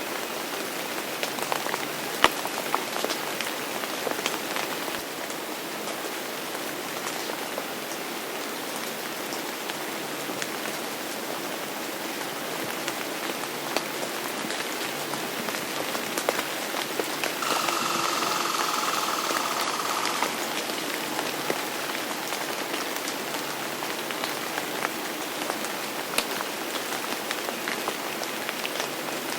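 Steady rain falling on a surface, with scattered sharp drip ticks through it. For about three seconds, some two-thirds of the way in, a brighter hiss with a faint steady tone rises over the rain.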